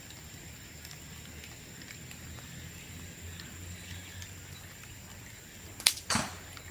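Bamboo burning in an open bonfire: faint crackling ticks, then near the end a sharp, loud crack followed at once by a second, longer burst as a sealed bamboo section splits open from the heat.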